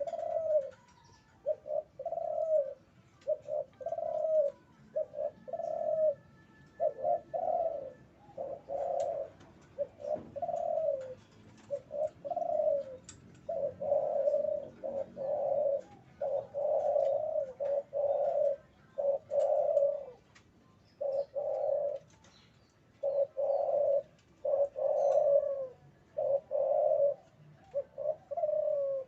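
Male spotted dove (derkuku) in breeding condition cooing over and over in short, low, slightly falling notes grouped into phrases, the courtship-driven calling of a bird in heat.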